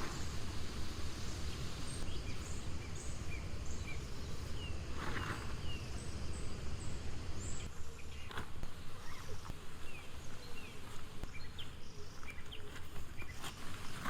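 Forest ambience: a steady low rumble of wind or background noise, with small birds chirping in short, repeated downward-gliding notes. A few brief rustling noises come through, one about five seconds in and others later.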